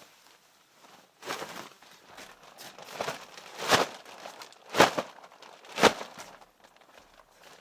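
A handful of short crinkling, rustling sounds of handled material, about five in all, the two loudest a second apart in the second half.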